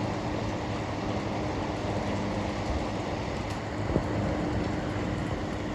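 Steady rushing roar of gusty wind through the trees, the wind heard coming in from behind the treeline rather than blowing on the microphone. A faint steady hum runs underneath, with one small click about four seconds in.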